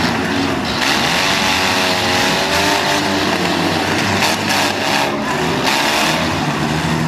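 Demolition derby cars' engines running hard and revving, their pitch rising and falling, with several engines overlapping.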